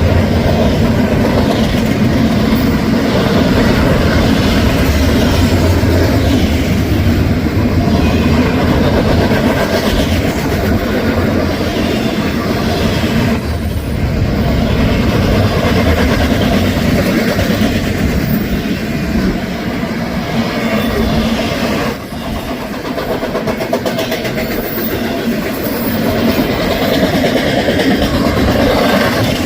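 Union Pacific intermodal freight train rolling past on the rails, a loud, steady rumble.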